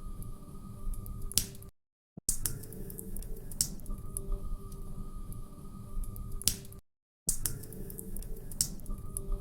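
Log fire crackling, with sharp pops and snaps scattered over a low rumble. The audio is a short loop that repeats about every five seconds and cuts out to silence for about half a second twice, around two seconds in and near the seven-second mark.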